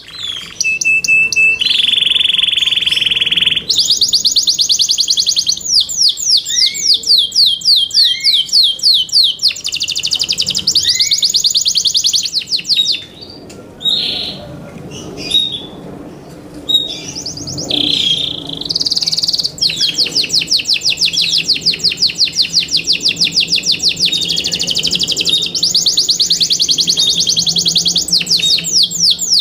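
Yorkshire canary singing a long song of fast, evenly repeated high trills, with a held buzzing note about two seconds in and a short looser break of scattered notes midway before the trills resume.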